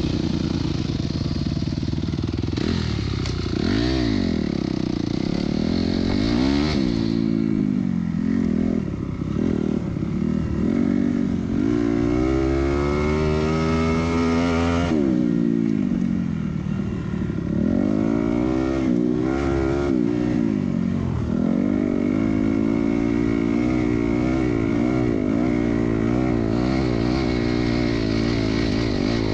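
Dirt bike engine running under load while being ridden, its pitch climbing and falling back again and again as the throttle is opened and closed. A longer climb about halfway through ends in a sudden drop.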